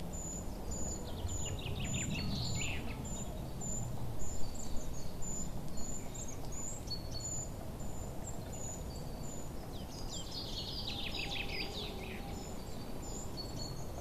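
Small songbirds chirping over a steady low background hush. One bird repeats a short, high chirp a few times a second throughout. Others break in twice with quick flurries of falling trills, the first about a second in and the second near the end.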